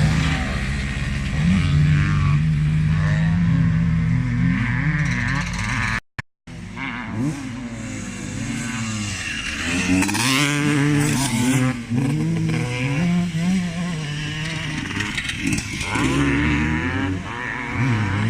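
Classic motocross motorcycles racing, several engines overlapping and revving up and down as the bikes pass and work the throttle. The sound drops out completely for about half a second around six seconds in.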